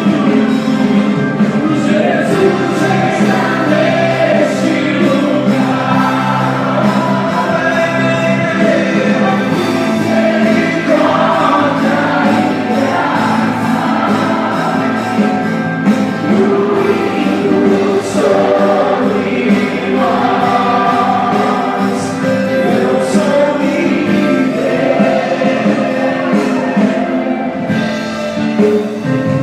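Worship music: a gospel worship song sung by several voices over steady instrumental accompaniment.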